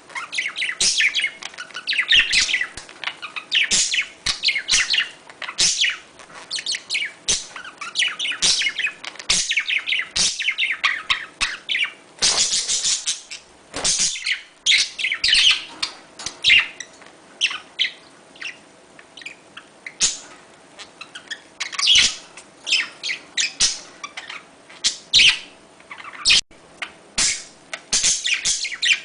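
Budgerigars chattering and warbling without a break in quick, high chirps, busiest about twelve seconds in. This is budgie mating chatter of the kind played to encourage pairs to breed.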